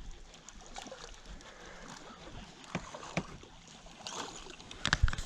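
Water sloshing against a small fishing boat's hull, with scattered small clicks and knocks; a sharper pair of knocks comes near the end.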